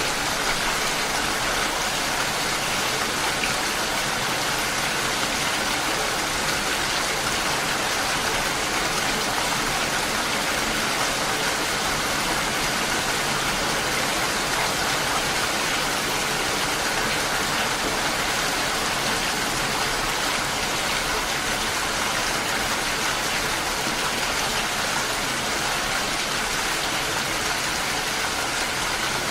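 Steady rain falling: an even, unbroken hiss with no distinct drops or pauses standing out.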